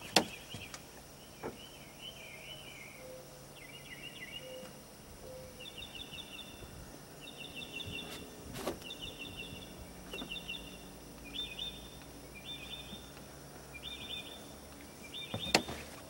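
Short trilled bird calls repeating about once a second over outdoor background noise, with a sharp knock just after the start and a few fainter clicks.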